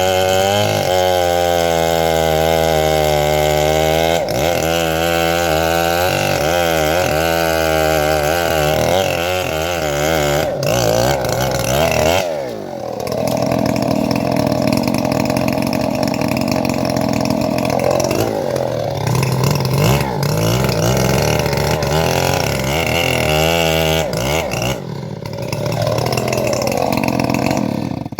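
Engine-driven wood saw running hard, its engine note sagging and recovering as the blade works through teak, with a deep drop in pitch about halfway through and a climb back a few seconds later. The sound cuts off abruptly at the end.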